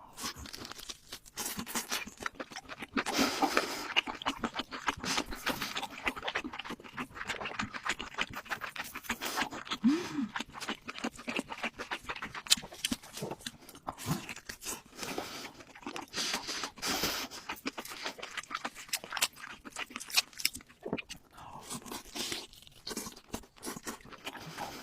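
Close-miked eating: steady crunching and chewing with wet mouth clicks.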